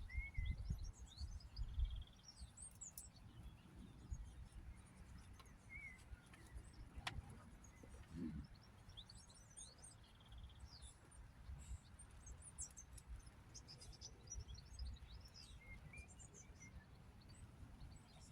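Faint birdsong: several small birds chirping and twittering in short, high phrases. A low rumble runs underneath, heaviest at the start, and a single sharp click comes about seven seconds in.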